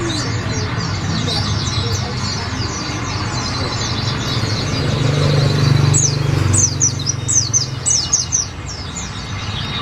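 Olive-backed sunbird singing a fast twittering run of high, downward-sliding chirps, its song filled with white-eye (pleci) phrases; the chirping is loudest in a burst about six to eight seconds in. A steady low rumble lies underneath.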